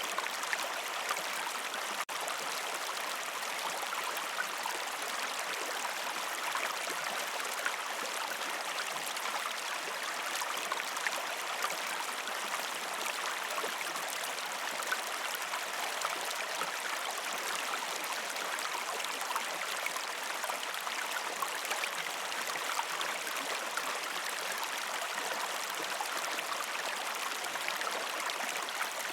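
A river stream flowing over rocks, a steady rushing and babbling with small splashes throughout. There is a brief dropout about two seconds in.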